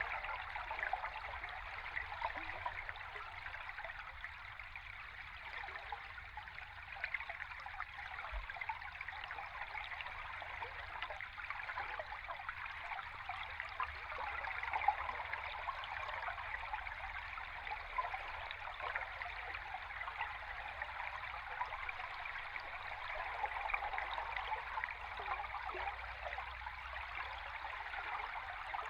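Flowing stream water heard from underwater: a steady, dense fizzing and bubbling crackle with a faint low rumble beneath.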